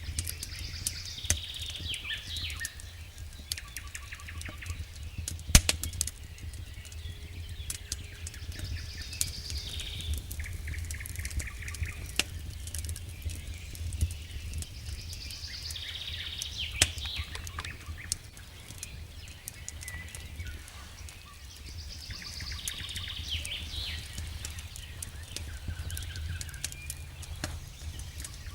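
Wood fire in a fireplace crackling, with scattered sharp pops (the loudest about five and a half seconds in) over a low steady rumble. Small birds chirp in short bursts that come back roughly every seven seconds.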